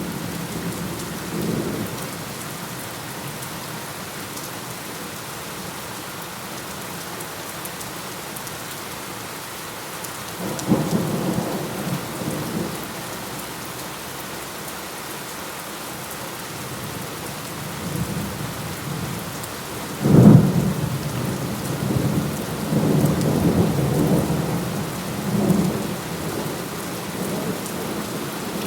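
Steady rain falling, with thunder rumbling several times; the loudest is a sharp thunderclap about two-thirds of the way through that rolls on for several seconds.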